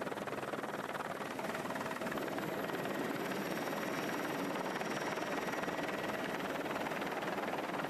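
Helicopter running steadily, its rotor beating rapidly and evenly, slightly louder from about two seconds in.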